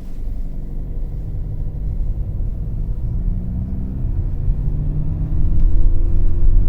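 Kia Sportage's engine pulling away from a stop, its note rising steadily as the car gathers speed. This is the car whose automatic transmission is misbehaving: it shows D2 at a standstill and skips from D2 straight to D4.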